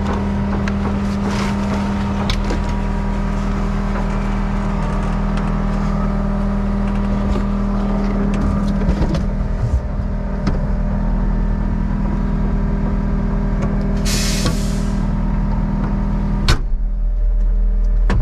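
Skid steer engine running steadily with its auxiliary hydraulics engaged to drive a Mud Demon concrete pump. A brief hiss comes about fourteen seconds in, then a sharp click, after which the low engine note grows louder.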